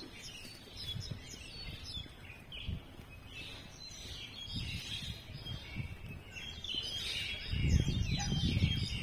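Small birds chirping, many short calls one after another, over low thumps that grow louder near the end.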